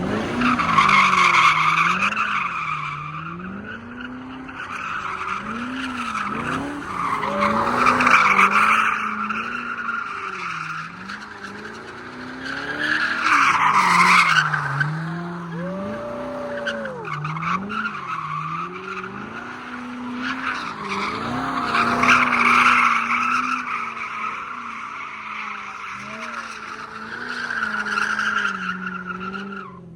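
A car drifting with its tyres squealing, the squeal swelling and fading about five times. Under it the engine revs rise and fall about every two seconds as the throttle is worked through the slide.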